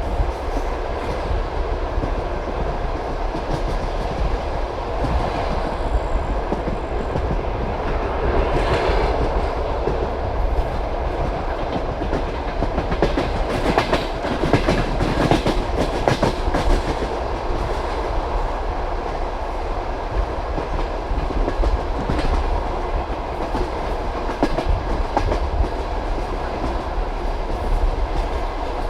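Passenger train carriage running along the track: a steady rolling rumble with the clickety-clack of the wheels knocking over rail joints, coming in clustered groups of clicks.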